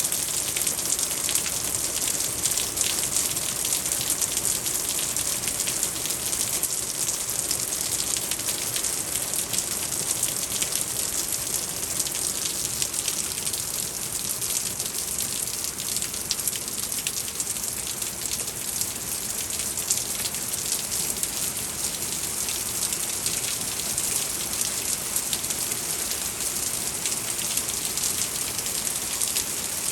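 Steady heavy rain falling, with a dense patter of drops striking surfaces.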